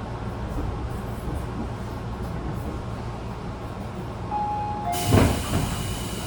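Inside a Tobu 10000 series electric train car: a steady low rumble. About five seconds in, a sudden loud burst of knocks and hiss sets in.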